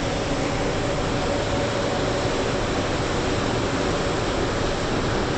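Steady rushing noise of a Rhine river boat under way, with a faint steady engine hum under the rush of wind and water.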